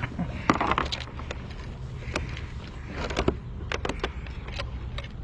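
Scattered sharp clicks and knocks of fishing gear being handled against a kayak while a fish is landed, bunched about half a second in and again around three seconds in, over a steady low rumble.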